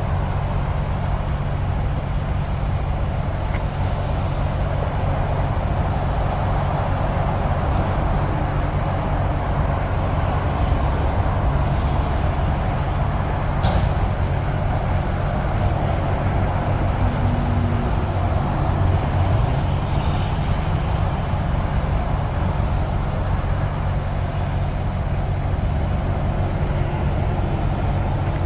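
Steady, continuous rumble of heavy traffic with a low hum under it, and a single sharp click about fourteen seconds in.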